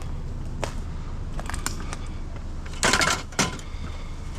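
Scrap metal clanking and knocking as it is handled, a few scattered sharp knocks with the loudest pair about three seconds in, over a steady low hum.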